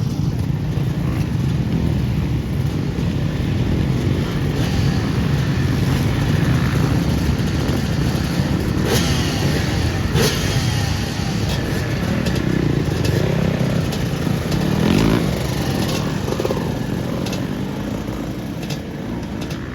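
Motocross bikes running on a dirt track, engines revving up and down as riders go through the gears, with a few sharp clacks partway through.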